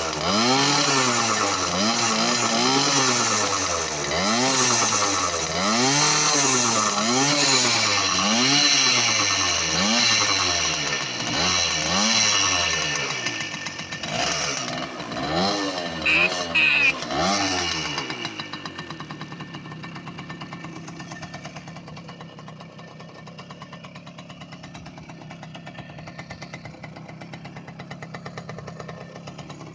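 Soviet Delta moped's two-stroke engine, fitted with a 39.5 mm Honda Dio piston, revved up and down over and over, about once a second. About two-thirds of the way through it drops back to a steady, quieter idle.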